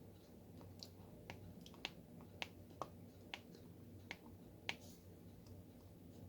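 Diamond painting pen tapping small resin drills onto the canvas: about a dozen light, sharp clicks at irregular intervals, roughly one every half second, the loudest a little under five seconds in, over a faint low hum.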